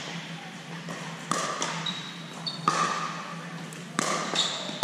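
Pickleball rally: paddles striking the plastic ball three times, about once every second and a half, each hit a sharp pop with a short ring after it.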